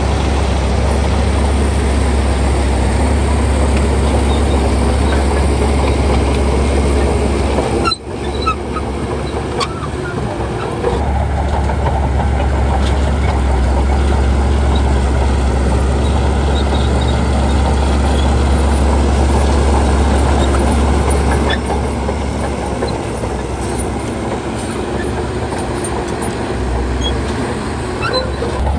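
Heavy diesel engine of a crawler bulldozer running steadily at work, with scattered metallic clanks and squeaks. The sound drops out briefly about eight seconds in.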